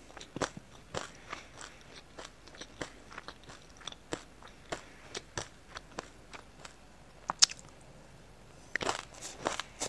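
Close-up mouth sounds of chewing a mouthful of raw sesame seeds with passion fruit: irregular crisp crunches and crackles. They thin out for a couple of seconds, with one sharp click about seven seconds in, then a fresh spoonful brings a dense run of crunches near the end.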